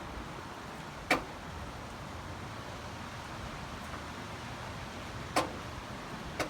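Three sharp single clicks, about a second, five and a half and six and a half seconds in, over a steady faint hiss, as the ignition of the 1962 VW Type 2 is tried: the starter does not crank the engine.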